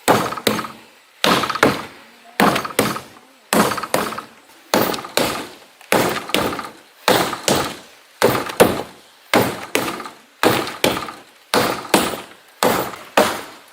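Wooden pestle pounding cooked sticky rice in a mortar, the strikes coming in pairs with a new pair about every second.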